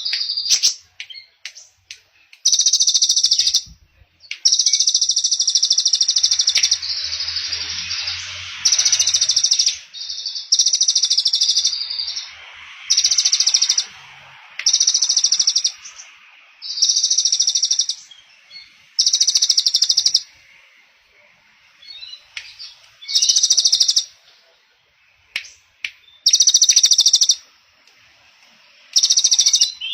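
A small songbird singing loud, rapid high trills over and over, each lasting a second or two with short pauses between, with fainter chirping in the gaps.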